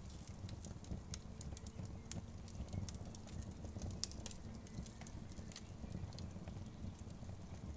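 Wood fire burning, its logs crackling with irregular sharp pops over a low steady rumble; the loudest pop comes about four seconds in.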